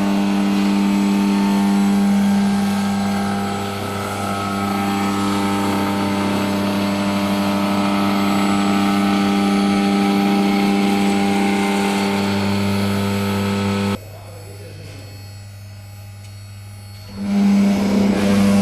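Air-cooled HQD spindle of a CNC wood router running with a steady machine whine. About two thirds of the way through it drops away for roughly three seconds, leaving only a low hum, then comes back.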